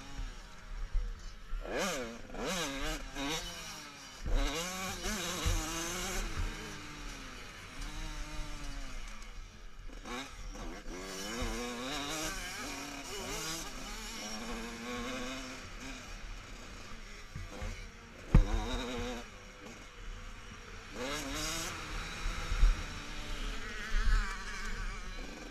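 Several motocross bikes' engines revving hard, overlapping and rising and falling in pitch as riders accelerate and shift. A sharp knock comes about two-thirds of the way through.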